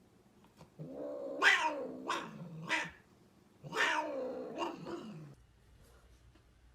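Domestic cat yowling: two long drawn-out calls, each wavering up and down in pitch, with a short pause between them.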